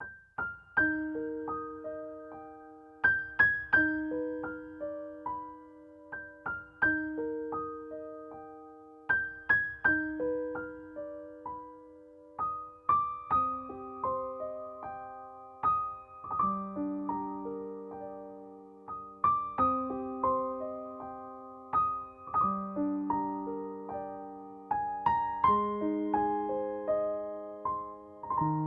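Background music: a slow, gentle piano piece of broken chords, each note struck and left to ring.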